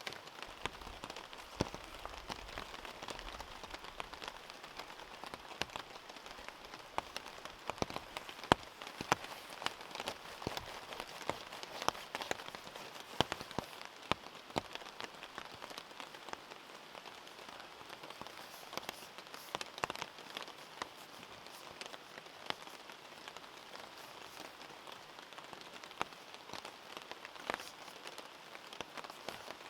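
Steady rain, with many separate drops tapping sharply and irregularly close to the microphone.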